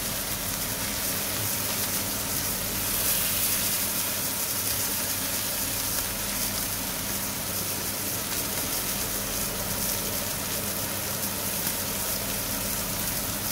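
Beef hamburger patties sizzling steadily in a hot frying pan, a continuous hiss, with a steady low hum beneath.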